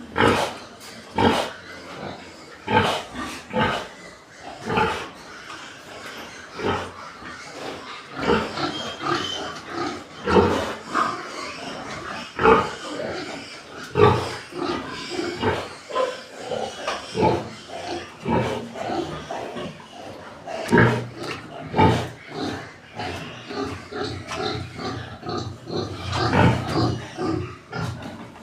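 Animal calls: many short cries in irregular succession, sometimes several close together.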